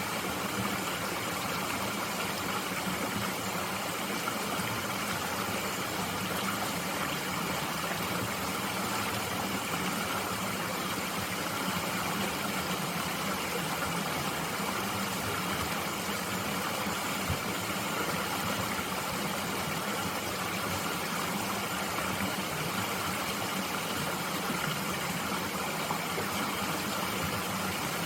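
Mountain stream flowing, a steady rush of water with no change.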